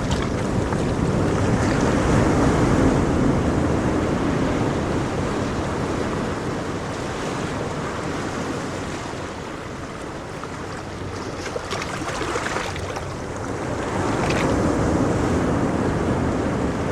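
Ocean waves breaking and washing on a shore, the surf swelling and easing in slow surges, with wind on the microphone.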